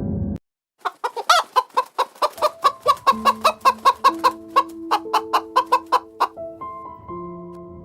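Hen clucking in a rapid run, about five clucks a second for some five seconds, over soft background music with held notes that carries on alone near the end.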